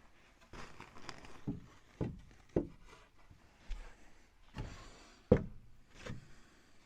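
A series of separate knocks and thunks on wooden framing lumber at uneven spacing, the loudest about five seconds in, with rustling and handling noise between them.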